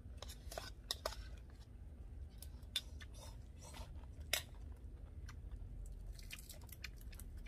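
Chewing and crunching of crispy fried fish: irregular small crunches and clicks, over a steady low rumble.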